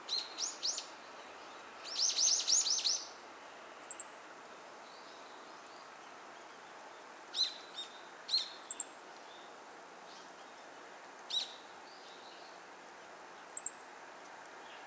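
Birds calling in short, sharp chirps: a few at the start, a quick run of about eight about two seconds in, then scattered single and paired calls and a few very brief high notes, over a steady outdoor hiss.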